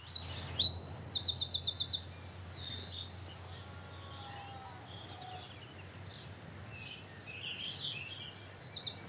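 Songbirds singing: a fast series of high repeated notes for about the first two seconds, softer scattered chirps in the middle, and several birds chirping again near the end.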